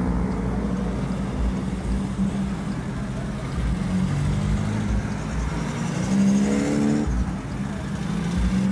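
Fiat 147 engines running as the small cars drive past one after another. One revs up briefly about six seconds in, then eases off.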